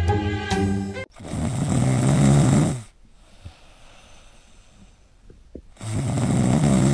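A dog snoring loudly: two long, raspy snores a few seconds apart, with a quiet pause between them. A snatch of marimba-like music ends about a second in.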